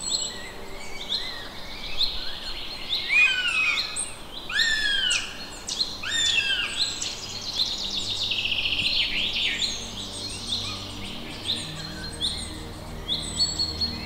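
Several birds calling and singing: many short chirps and downward-sweeping whistled notes, busiest in the middle, with a fast run of repeated notes about eight seconds in.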